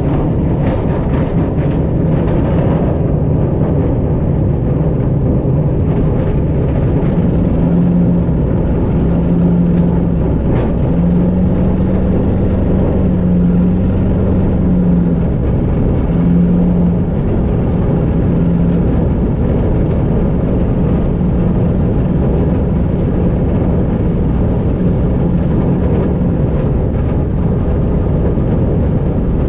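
Engine of a Pchelka-7 homebuilt light aircraft running steadily, heard from inside the cockpit, as a loud, even drone whose hum wavers slightly in pitch.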